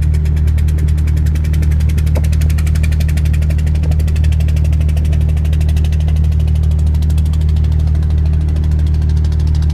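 Boat engine running steadily: a deep, even hum with a fast, regular ticking of about ten beats a second.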